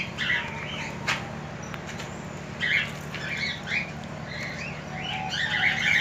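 Caged aviary birds chirping and squawking in short, irregular calls over a steady low hum, with a single click about a second in.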